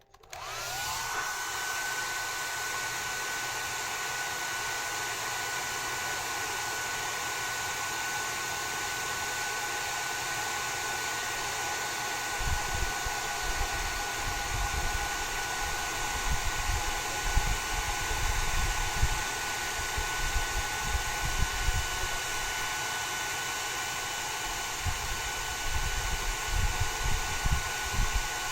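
Hair dryer switched on, its motor spinning up with a rising whine over about a second, then blowing steadily with a whine over a rush of air. From about twelve seconds in there is irregular low rumbling.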